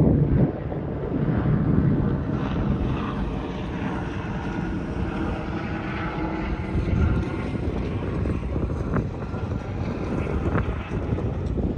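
Steady drone of an aircraft engine passing overhead, with wind buffeting the microphone underneath.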